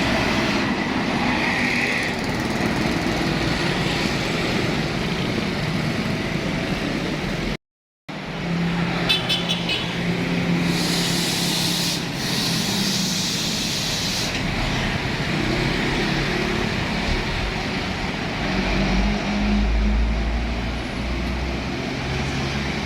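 Heavy trucks passing on a road, their engines running over steady traffic noise. About halfway through comes a few seconds of hissing air, and near the end a deep, low rumble as a heavy vehicle goes by.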